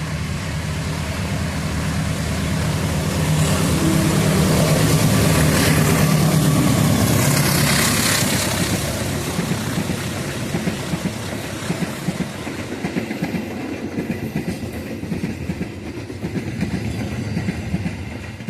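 A diesel-electric locomotive hauling a passenger train passes close by. Its engine hum is loudest in the first half, and then the carriages' wheels clatter over the rail joints as the train rolls on.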